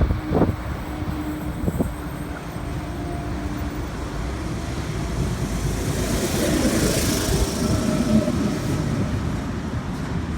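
V-set electric double-deck intercity train running into the platform, a low rumble of wheels on rail that grows louder and peaks about seven seconds in, with a swelling hiss and faint steady tones over it.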